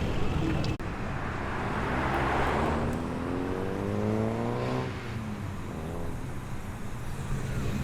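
A car engine accelerating away: revs rise steadily for a couple of seconds, then drop suddenly near five seconds in as the driver lifts off or changes gear. Other engines idle low underneath.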